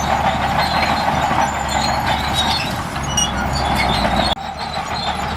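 Diesel engine of heavy earthmoving machinery running steadily, with a brief sudden break about four seconds in before the same engine noise carries on.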